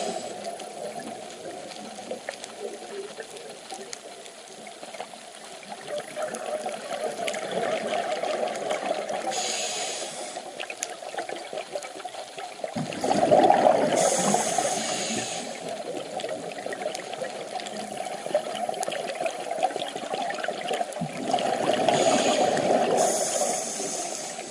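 Scuba diver's breathing heard underwater: the hiss of the regulator and the bubbling rush of exhaled air, swelling and fading every several seconds.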